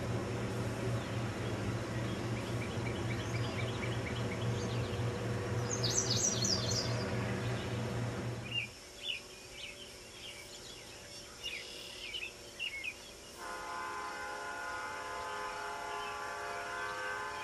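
A steady low engine drone with birds chirping over it, cutting off abruptly about nine seconds in. After a few quieter seconds of birdsong, the air horn of an EMD GP38 diesel locomotive starts sounding about thirteen seconds in, a steady chord held through the rest.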